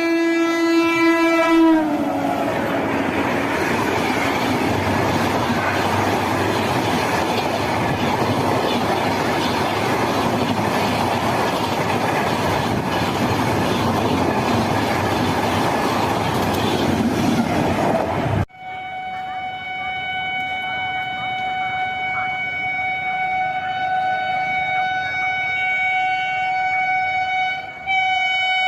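A train horn blares and drops in pitch as the train passes. About sixteen seconds of rushing, clattering train noise follow. Then an abrupt cut to a long, steady horn blast that briefly falters near the end.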